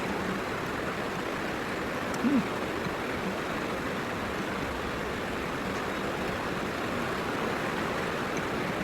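Heavy rain falling, a steady, even hiss. A brief low sound cuts through about two seconds in.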